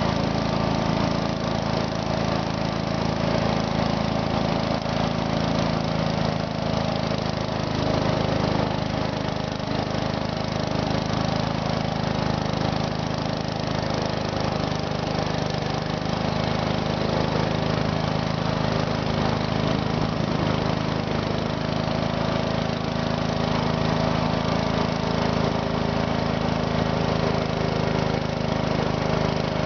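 Small garden tractor engine running at a steady speed, its pitch holding even with no clear revving up or down.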